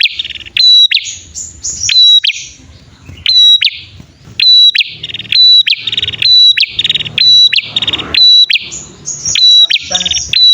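Prinias (prenjak), male and female, calling loudly and continuously. Rapid sharp chirps alternate with harsh buzzy trills, the kind of duet call used to lure prinias.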